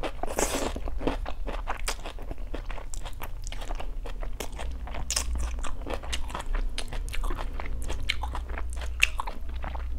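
Close-miked chewing and crunching of food: a dense run of small wet mouth clicks, with a short noisy smear in the first second.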